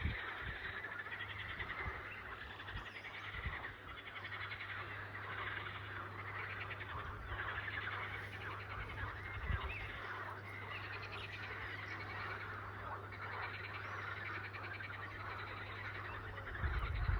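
A dense, continuous chorus of calling frogs, with a steady low hum underneath and a few low wind thumps on the microphone, the clearest about halfway through and near the end.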